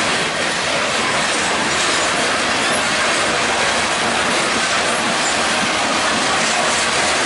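Freight train's covered hopper cars rolling past, steel wheels running on the rails with a steady, loud noise.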